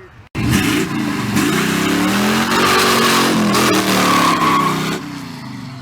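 A car's engine revving hard as it pulls away, its pitch rising and falling, with a broad rush of tyre and exhaust noise. It starts suddenly and dies down near the end.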